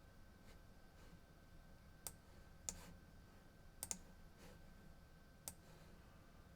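Faint, scattered clicks from computer use, four or five sharp clicks with two close together about four seconds in, over quiet room tone with a faint steady high tone.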